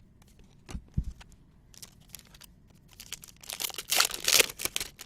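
A foil trading-card pack wrapper being torn open and crinkled, a dense crackle in the second half, after a couple of soft knocks about a second in.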